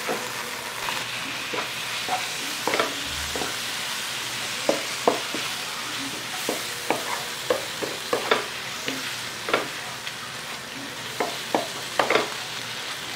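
Fried onions, masala paste and freshly added chopped tomatoes sizzling in a pan, stirred with a wooden spatula that knocks and scrapes against the pan at irregular intervals over a steady hiss.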